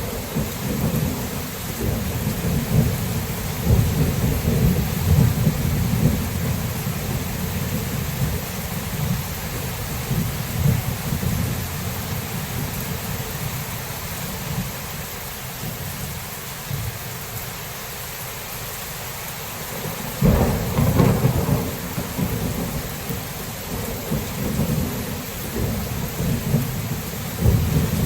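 Thunderstorm: steady rain hiss under rolling thunder. The rumble eases off through the middle, then a sharper, nearer thunderclap breaks in about twenty seconds in, and another rumble starts near the end.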